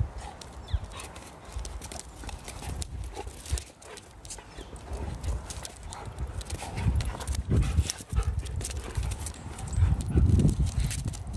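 Dogs scuffling in play, with scattered clicks and heavier thumping bursts that get louder in the last few seconds.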